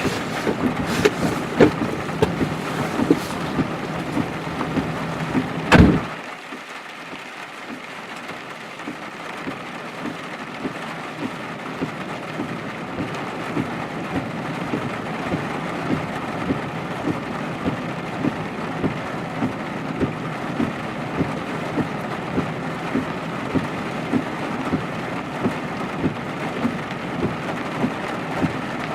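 A truck door slams shut about six seconds in, after a few clicks and knocks. Then rain patters steadily on the truck's roof and windshield, heard from inside the closed cab.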